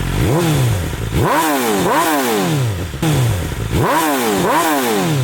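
2023 BMW S1000RR inline-four sport bike, fitted with Akrapovic race headers and mid pipe feeding the factory slip-on, being revved with about five quick throttle blips, loosely in pairs. The engine pitch shoots up and falls back sharply each time.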